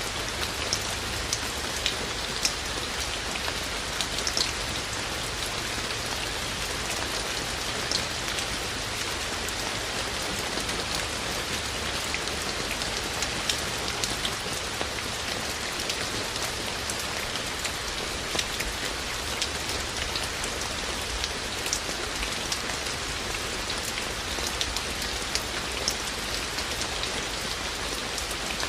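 Steady rain falling, a constant hiss with many scattered sharp ticks of individual drops striking.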